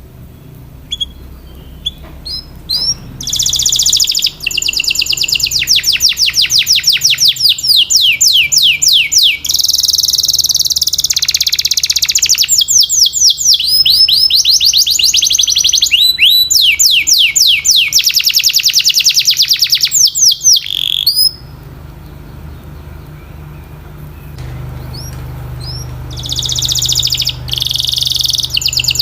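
Domestic canary singing in long, rapid trills of repeated high, falling notes, the phrases changing speed and pitch. The song starts a few seconds in, breaks off a little after twenty seconds and resumes near the end, over a faint low hum.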